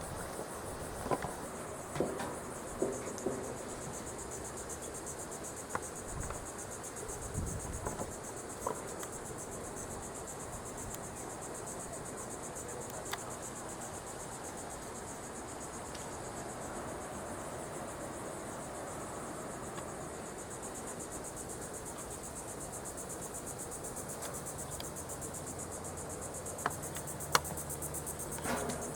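A steady, high-pitched insect chorus of fast, continuous trilling, with a few faint light clicks and rustles over it.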